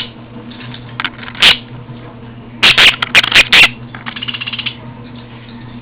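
Budgerigar's beak pecking and nipping at the camera: sharp clicks and taps, one or two about a second in and a quick cluster a little before halfway. Near the end comes a brief rapid rasping chatter from the bird.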